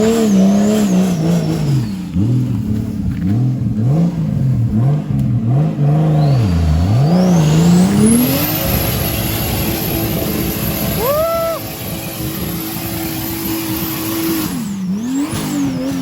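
Off-road 4x4's engine revving hard as it churns through mud: the pitch swings up and down over and over for about the first half, then is held at a steady high pitch for several seconds before dropping off near the end.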